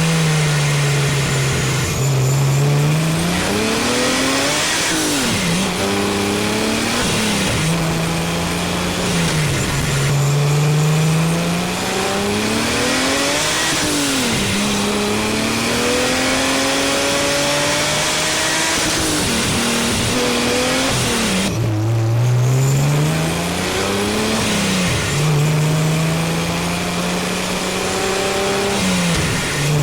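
Supercharged BMW 330ci's straight-six engine heard from the engine bay while driving. The revs climb and fall back sharply several times as it shifts up through the gears, and between the climbs it holds a steady cruise.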